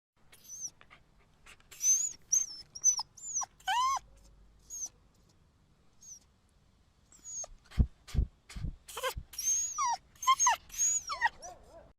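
Dog whimpering and whining in a series of short, high calls, many sliding down in pitch, with a few low thumps about eight seconds in.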